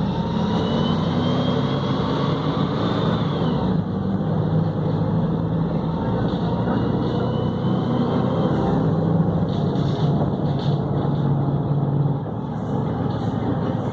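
Volvo B7RLE bus's diesel engine and Voith automatic gearbox running steadily under way, with a faint high whine that rises in pitch a couple of times.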